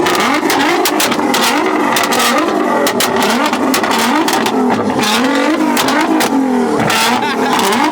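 Car engine being revved repeatedly against a two-step launch limiter, its note rising and falling again and again, with rapid sharp pops and bangs from the exhaust throughout.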